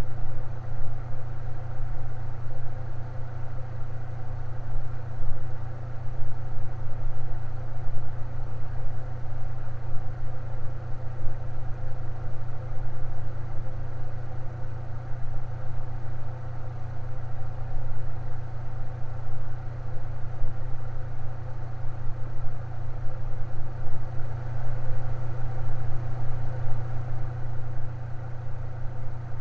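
Electric fan running steadily: a constant low hum with a fainter whir of several steady tones above it.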